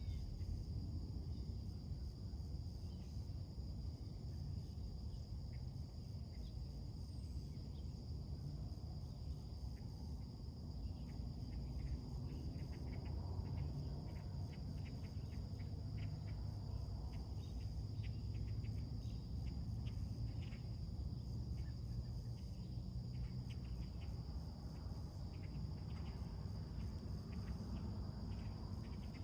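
Insects trilling in a steady high drone, with many short bird chirps scattered through it and a low steady rumble underneath.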